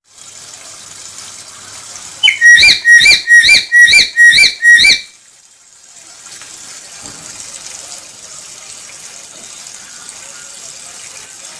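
Black-capped lory calling: a quick series of about eight loud, ringing whistled notes, about three a second, over a steady hiss.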